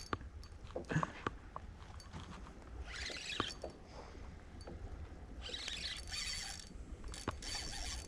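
Fishing reel whirring in three short bursts of about a second each, with scattered clicks and knocks between them, as a hooked fish is played.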